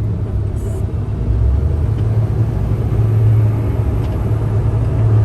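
Heavy truck's diesel engine running with a steady low rumble.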